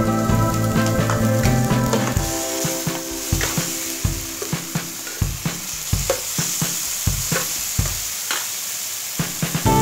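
Background music for about the first two seconds, then a stir-fry sizzling in a nonstick frying pan as fresh sauce cooks in. A metal spatula scrapes and taps against the pan in quick, irregular strokes as it is stirred.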